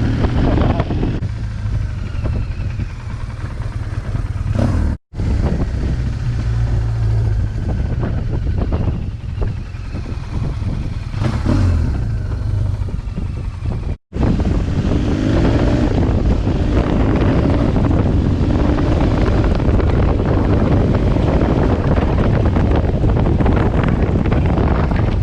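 BMW R1200GS boxer-twin engine running under way, with wind rushing over the microphone. The sound cuts out abruptly twice.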